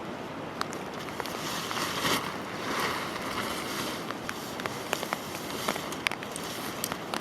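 Steady heavy rain, with frequent sharp ticks of drops striking close by. A brief louder swell of noise comes about two to three seconds in.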